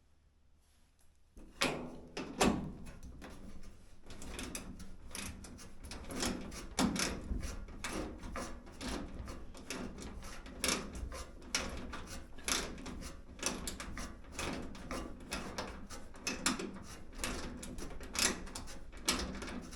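Quarter-inch hex-head self-tapping sheet metal screws being backed out of a dryer's sheet metal cabinet with a hand tool. A dense, irregular run of metallic clicks and scrapes starts about a second and a half in.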